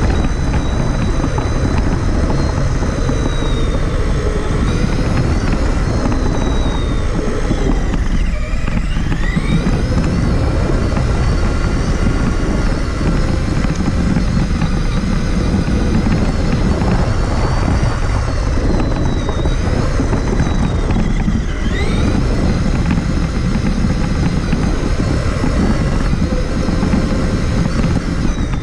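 Traxxas Summit RC truck heard from a camera mounted on the truck: its electric motor and drivetrain whine rises and falls with the throttle over a steady, heavy rumble. The whine drops away and climbs again about 8 seconds in and about 21 seconds in.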